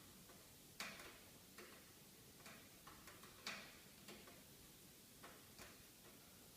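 Wood fire in a fireplace crackling: faint, irregular snaps and pops, the sharpest about a second in and again about three and a half seconds in.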